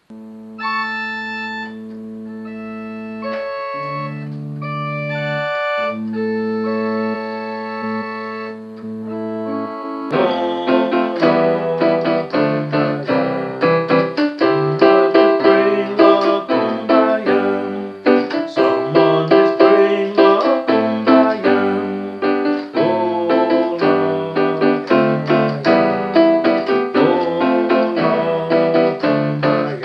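Electronic keyboard music with no voice: held organ-like chords for about the first ten seconds, then a busier, rhythmic keyboard part with many quick notes.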